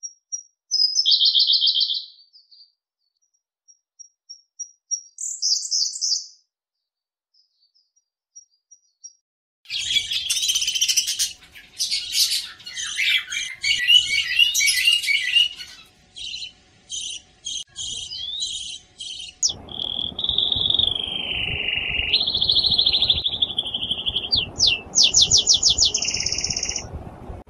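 Bird calls and songs, high-pitched: a few short separate calls with silence between them, then from about ten seconds in a dense run of chirps and rapid repeated notes, and from about nineteen seconds a whistled song with gliding pitch over a background hiss.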